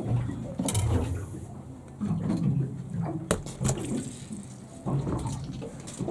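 Water sloshing and slapping against a small boat's hull, with a few sharp knocks and clicks, one about a second in and two a little past the middle.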